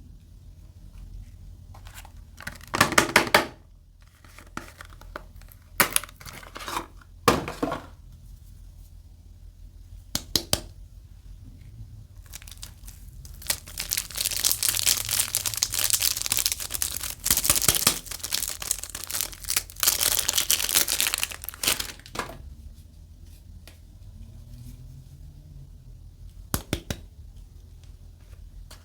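Soap packaging being unwrapped by hand. There are short crinkles and crackles at first, then about eight seconds of continuous crinkling and tearing of the wrapping around the middle, then a few light ticks near the end.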